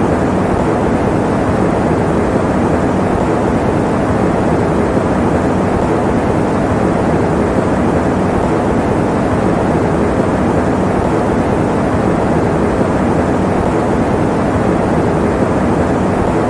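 Electric fan running steadily: an even, deep rushing noise with little hiss and no change in it.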